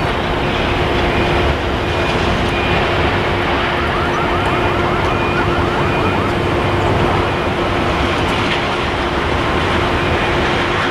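A train passing close by: a loud, steady rumble of railcars rolling on the rails, with a steady low hum underneath and a brief faint warble midway.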